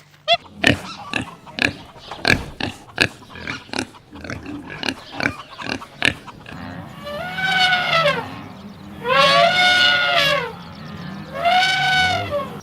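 Pigs grunting in a run of short, sharp grunts, followed by three long pitched squeals.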